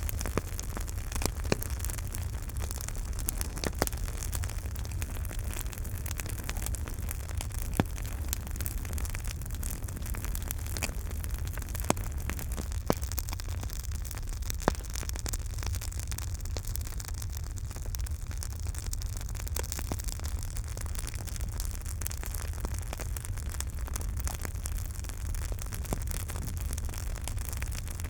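Campfire burning: a steady hiss and low rumble with constant small crackles and a handful of sharper pops scattered through.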